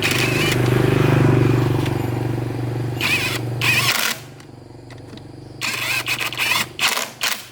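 Honda CB750's four-cylinder engine running, dropping lower about four seconds in, with a few short sharp noises near the end.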